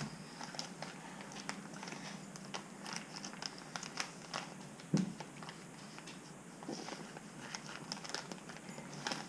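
Crinkling, scraping and light clicking from scooping citric acid powder, with one louder knock about halfway through.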